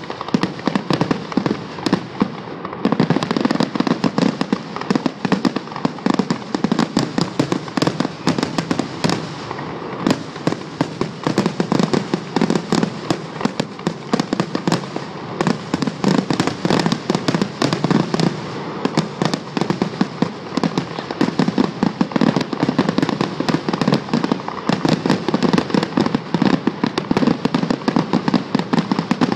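Fireworks going off in rapid succession: a dense, unbroken stream of bangs and crackling pops that thickens and grows louder about three seconds in.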